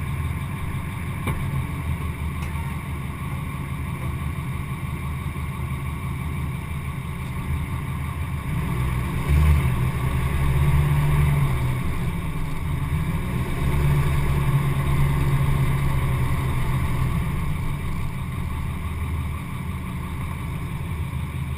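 Diesel pickup truck engine running, its sound growing louder twice around the middle, then settling back.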